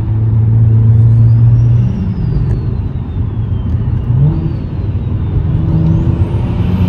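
A single-turbo BMW 335xi's N54 inline-six heard from inside the cabin while driving. A loud, steady engine drone lasts about two seconds, then the engine goes quieter with two brief rises in pitch as the throttle changes. Over it runs a faint high whistle that slides up and then back down.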